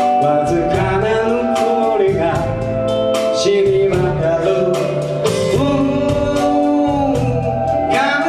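Live band playing a slow song, with drum hits and sustained instrument notes under a singing voice.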